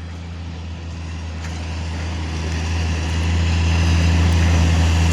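Heavy diesel engine running with a steady low hum, growing steadily louder over the first four seconds and then holding, as heavy machinery works near the truck being loaded with crushed stone.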